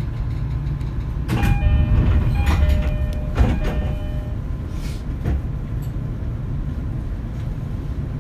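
Cabin running noise of a JR East E231 series EMU motor car (MoHa E230) on the move: a steady low rumble from the wheels and track. A bit over a second in comes a cluster of sharp clacks with brief ringing tones, and a couple more clacks follow about five seconds in.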